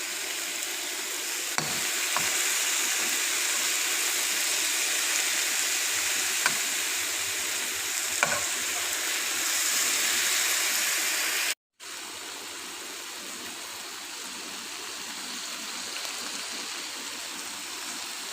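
Food sizzling as it fries in a pan, a steady hiss with a few light clicks in the first half. It breaks off for a moment about two-thirds through and comes back quieter.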